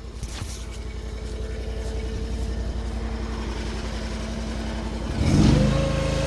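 Mini skid steer's engine running under load as the machine climbs, growing louder as it nears, then revving up with a rising pitch about five seconds in.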